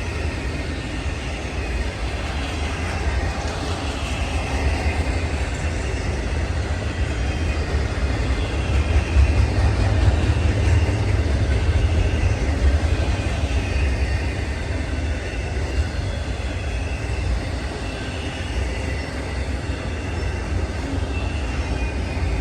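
Train rolling by: a steady low rumble of wheels and railcars that swells to its loudest about halfway through, with faint wavering high-pitched tones above it.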